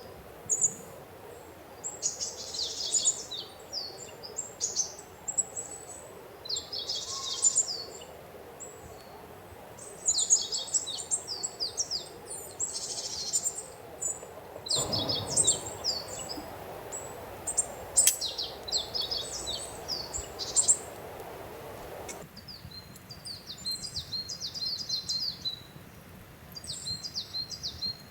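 Songbirds singing: rapid high chirping phrases repeating every second or two, over a low steady outdoor background noise.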